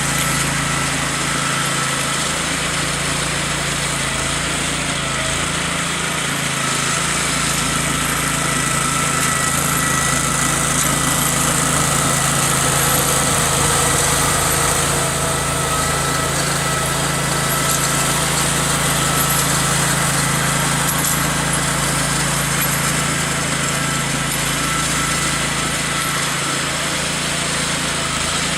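Small garden tractor engine running steadily under load, with a constant whine over the engine drone, while snow blowing.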